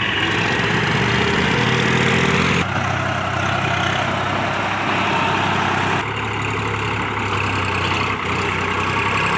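Tractor diesel engine idling steadily, its low, even tone changing abruptly about two and a half seconds in and again about six seconds in.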